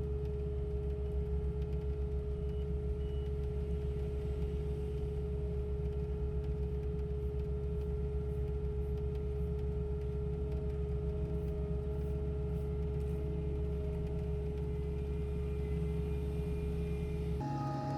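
Heavy diesel road-works machinery for asphalt milling and paving, running steadily: a deep engine rumble with a fast even pulse and a steady whine over it. The sound changes abruptly just before the end.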